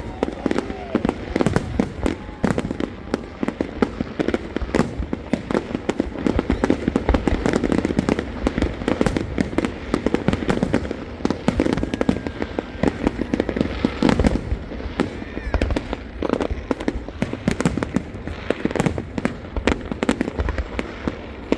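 Fireworks display going off without pause: dense, overlapping bangs and crackling, many shells bursting one after another.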